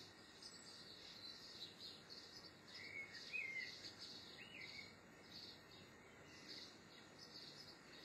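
Faint birdsong: a high chirp repeating about twice a second throughout, with a few short whistled bird notes about three and four and a half seconds in.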